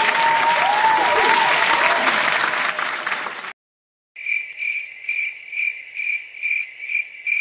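Crowd applause and cheering that cuts off abruptly about halfway through, then after a brief gap a stock crickets-chirping sound effect, steady chirps about twice a second, the stock cue for an awkward silence.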